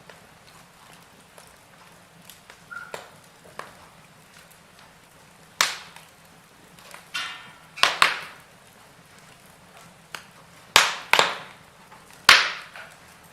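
Burning logs in a fireplace crackling: irregular sharp pops and snaps, some in quick pairs, over a faint steady background hiss, with a short hiss of escaping gas about seven seconds in.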